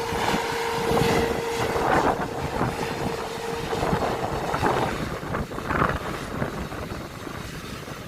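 Airbus A330-900 jet engines running, with a steady hum that fades out about four seconds in, under gusts of wind buffeting the microphone.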